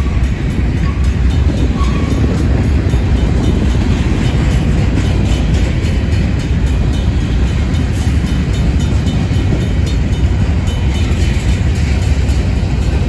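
Union Pacific grain train's covered hopper cars rolling past at close range: a steady heavy rumble of wheels on rail. A Safetran mechanical crossing bell rings under it.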